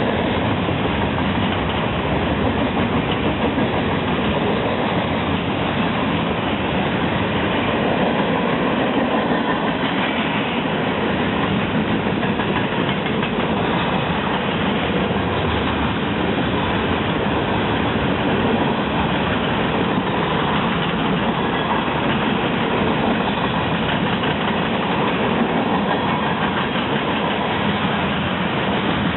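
A train's cars rolling past on the track, with a steady loud clatter of wheels on rail that keeps on without a break.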